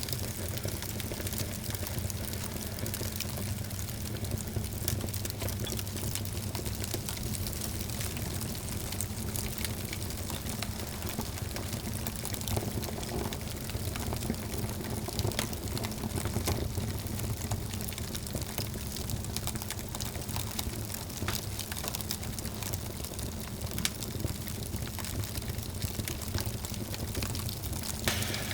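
Wood fire crackling, with frequent sharp snaps and pops over a low steady rumble.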